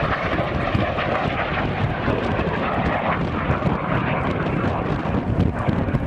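Fixed-wing aircraft flying by, its engine noise a steady rushing sound, with wind buffeting the microphone.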